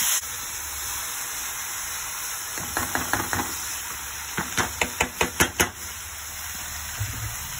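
Chopped potatoes frying in hot oil in a pan, the loud sizzle falling back to a steady, fainter sizzle just after the start. A spatula stirs them, knocking against the pan a few times about three seconds in, then in a quicker run of sharper knocks around five seconds in.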